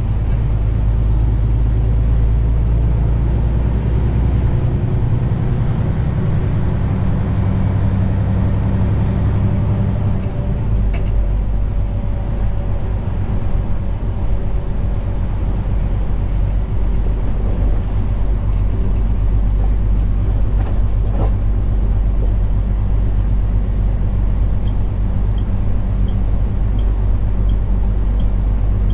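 Detroit DD15 diesel engine of a 2021 Western Star 4900 semi truck running steadily while driving, heard from inside the cab; the engine's note changes about ten seconds in.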